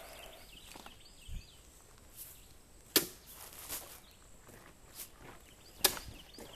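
Two sharp knocks about three seconds apart, with a few fainter knocks and taps between them over a quiet outdoor hiss.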